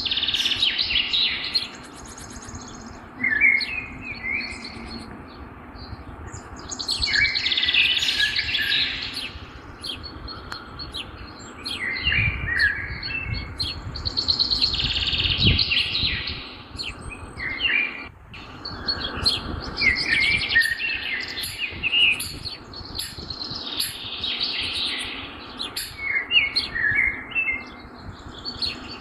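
Birds singing outdoors, with bright chirping song phrases returning every few seconds, and a brief low rumble in the middle.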